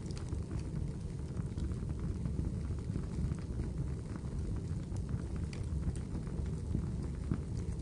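Wood fire burning in a fireplace: a steady low rumble with many small scattered crackles and pops.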